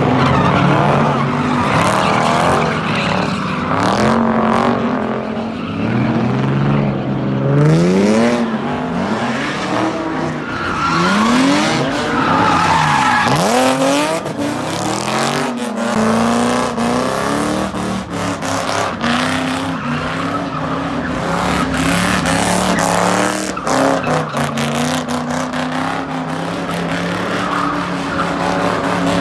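Car engines revving hard, the pitch repeatedly climbing and dropping, with tyres squealing and skidding, as in burnouts and donuts.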